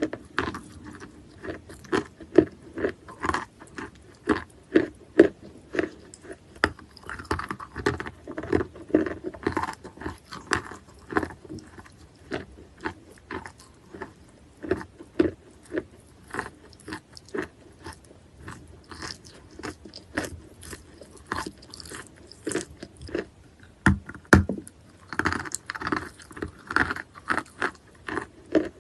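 Wet natural chalk being bitten and chewed close to the microphone: a continuous run of crisp crunches, several a second, with one louder sharp crack near the end.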